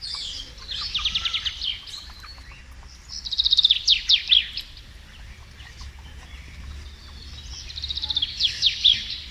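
A small songbird singing three phrases of rapid, evenly repeated trill notes, each phrase lasting about a second, with pauses between them.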